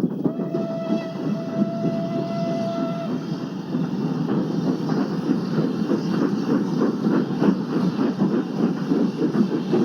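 Passenger train running, its wheels clattering over the rail joints in a fast, steady rattle. A train whistle blows for about three seconds near the start.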